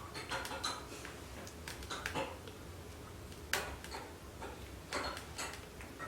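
Kindling fire in a wood stove crackling, with irregular sharp pops a few times a second apart over a low steady hum.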